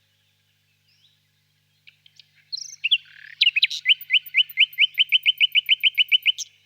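Nightingale singing: after a pause, a few varied notes lead into a fast run of identical rising whistled notes, about six a second, which stops abruptly.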